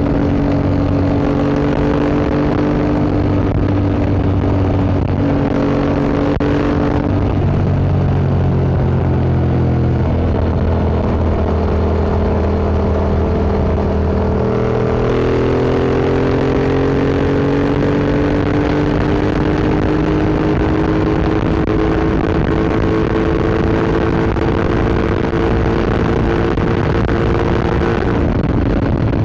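Yamaha MT-07 parallel-twin engine through an Akrapovic Racing Line exhaust, heard while riding. The engine note holds steady, drops about a quarter of the way in, then climbs slowly through the second half and falls away near the end.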